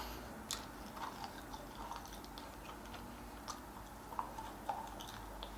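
A handful of faint, sharp clicks and taps at irregular intervals over a low steady hum.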